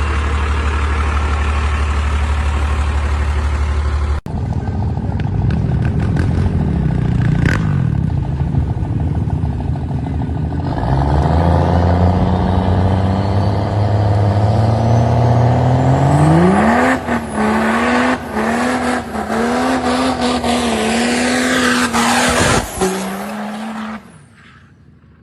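Truck engines: first a steady low idle that cuts off suddenly, then an engine running and accelerating, its pitch rising steadily and then sharply before wavering up and down as it is revved. The sound breaks off abruptly near the end.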